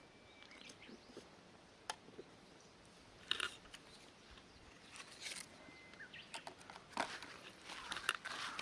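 Irregular crunching and clicking, sparse at first and busier in the second half.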